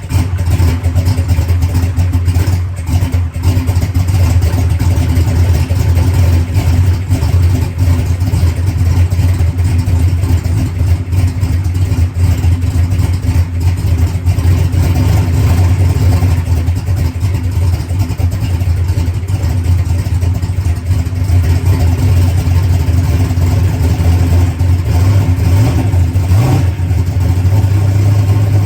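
Drag race car's engine idling loud and steady on its newly fitted Enderle fuel pump, which is holding about 80 pounds of fuel pressure at idle. A brief rise in pitch comes near the end.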